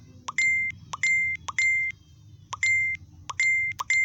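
Electronic beeps, each a short high tone with a click at its start, sounding in two quick runs of three.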